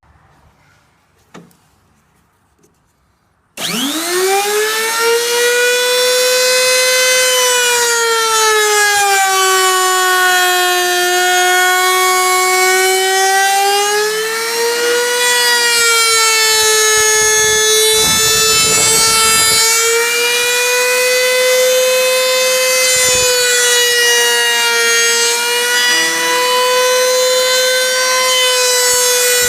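A high-speed-steel cutter in a boring head squealing as it mills a seat into a rough casting, starting abruptly after about three and a half seconds. The squeal is loud and continuous, its pitch sagging a few seconds in, then rising back and holding steady.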